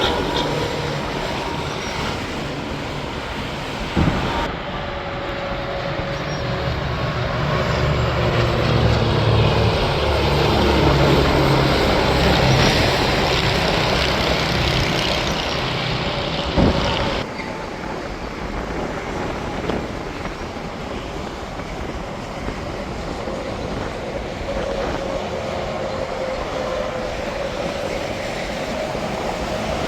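Interstate highway traffic: a steady roar of tyres on pavement with the low drone of heavy diesel trucks passing, loudest in the middle stretch. The sound changes abruptly twice, like cuts between clips.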